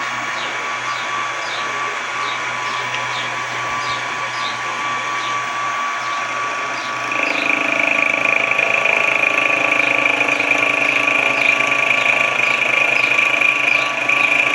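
Benchtop milling and drilling machine running steadily, with a light tick repeating about twice a second. About halfway through, a louder, higher whine joins in.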